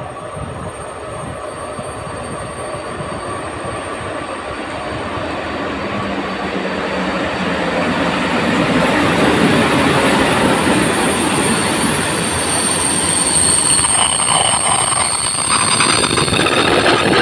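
EP07 electric locomotive and its passenger coaches running past at close range, a steady rumble of wheels on rail that grows louder as the locomotive comes alongside, with a thin high wheel squeal over it.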